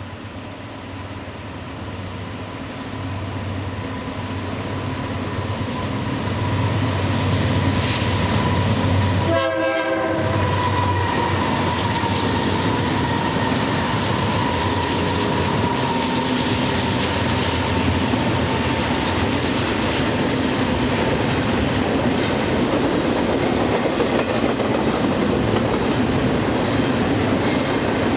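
A train passing close by, growing louder over the first seven seconds and then running steadily.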